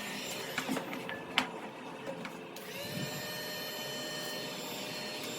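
Small electric power-tool motor running with a steady whirr, with a few clicks early on. About two and a half seconds in, its whine rises and then settles as it spins up to speed.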